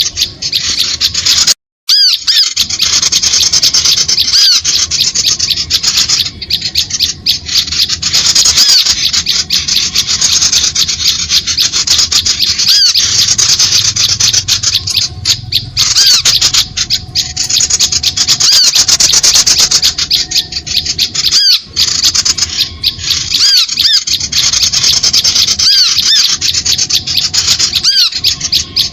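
Dense, continuous chattering of small birds: rapid, scratchy calls and short chirps overlapping without pause, with a brief break about two seconds in. It is a bird-lure call recording used to draw small birds in to birdlime.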